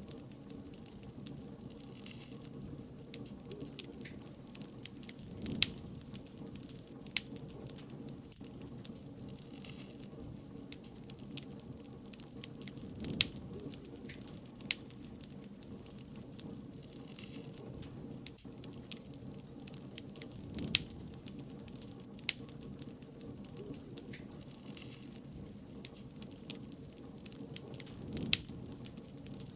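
Wood fire crackling: a steady low rumble of flames with irregular sharp pops, a few louder pops about every seven or eight seconds.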